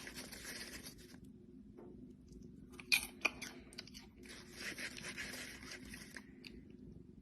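Faint crunching and chewing, with two sharp clicks about three seconds in and a longer stretch of crunching near the middle.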